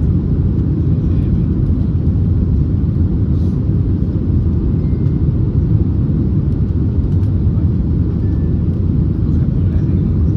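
Steady cabin noise inside an Airbus A321neo in flight: a constant low rumble of the engines and rushing air, level throughout.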